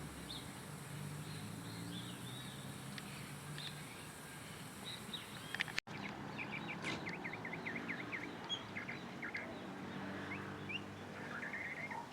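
Small birds chirping, with scattered short calls and a quick run of rapid notes about seven seconds in, over a steady low hum. The sound drops out briefly about halfway.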